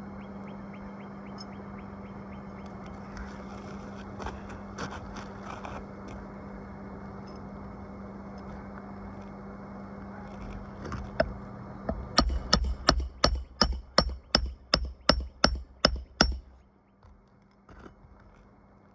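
Roofing being nailed down during a shingle repair: a quick run of about a dozen sharp strikes, roughly three a second, that starts past the middle and stops abruptly. Before it there is a steady low hum with scattered light clicks.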